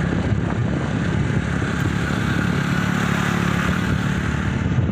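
A motor vehicle's engine running steadily, with a continuous hum and a rushing noise over it.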